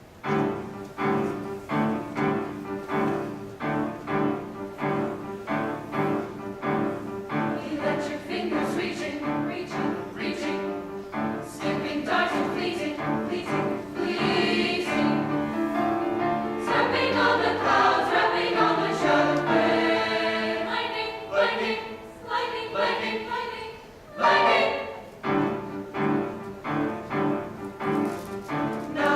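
Choir singing, beginning with short, evenly repeated notes, swelling to fuller sustained singing about halfway through, then returning to the short repeated notes near the end.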